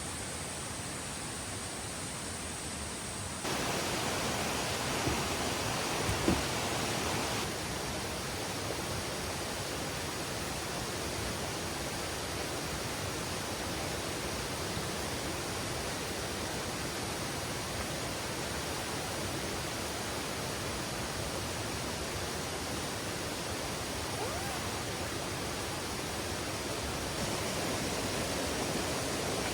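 Steady rushing of a mountain valley stream flowing over rocks. It turns louder a few seconds in and drops back a few seconds later, with a couple of brief knocks in between.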